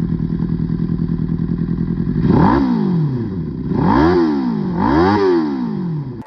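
Suzuki GSX-R600 inline-four motorcycle engine in a homemade crosskart, freshly started, idling steadily and then blipped three times, each rev rising and dropping back to idle.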